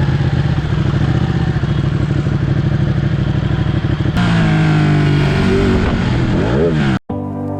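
Ducati Panigale superbike engine running with a fast pulsing note, then from about four seconds in being revved in quick blips, its pitch rising and falling. It cuts off abruptly near the end, and steady music takes over.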